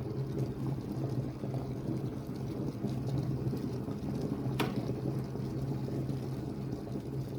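Taylor Swoden electric kettle at a full boil: the steady, low bubbling of boiling water, with a single sharp click about four and a half seconds in.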